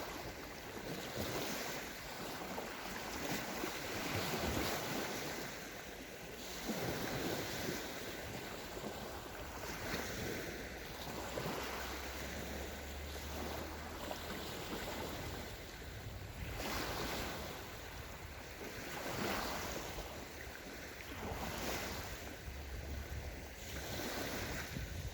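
Small sea waves breaking and washing up a sandy shore, one swell every two to three seconds. A low wind rumble on the microphone comes in twice, around the middle and near the end.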